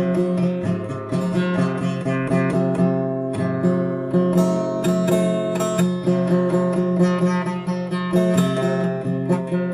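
Guitar playing: a continuous run of plucked notes and light strums ringing over held low bass notes.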